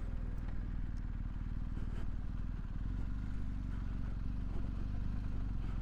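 Motorcycle engine idling steadily at low revs.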